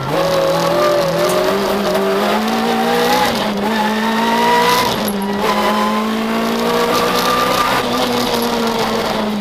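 Citroën Saxo VTS rally car's four-cylinder engine heard from inside the cabin, revving hard under full acceleration. It shifts up twice, about three and five seconds in, the pitch dropping at each shift and climbing again, before easing off near the end.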